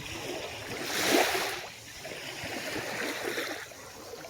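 Small calm waves washing onto the beach: one louder wash about a second in, a softer one around three seconds.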